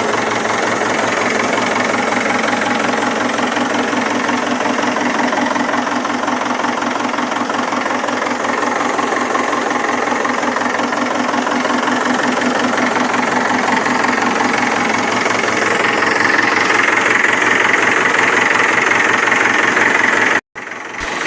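Tractor engine running steadily with a fast, even chug. It cuts off abruptly near the end.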